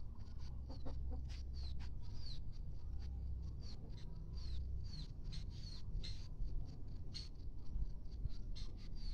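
Chicks peeping: short, high chirps that drop in pitch, repeated irregularly, with a few faint clicks among them.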